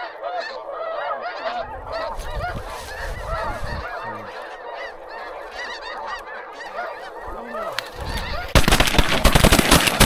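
A large flock of geese honking overhead, many overlapping calls. In the last second and a half a loud rushing, crackling noise rises over the calls.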